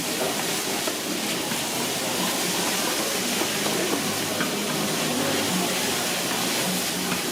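Steady hissing sizzle of pad thai frying on a hot pan, with a faint murmur of voices behind it.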